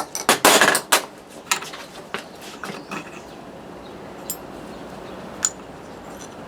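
Hammer blows in a workshop: a few quick strikes in the first second, then scattered lighter taps. Two small metallic clinks with a short ring follow, around the middle and later on.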